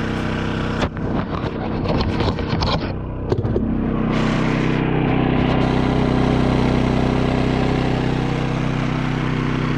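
Champion dual fuel generator's engine running on propane in eco mode, with a stretch of clicking and knocking between about one and three and a half seconds in. From about four seconds in, the engine runs louder and steadier at a changed pitch.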